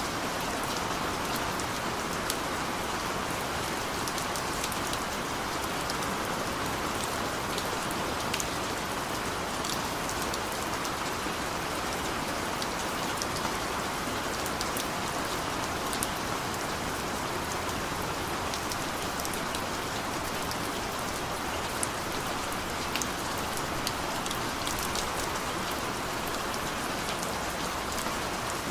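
Steady rain falling: an even hiss with many individual drops ticking sharply throughout.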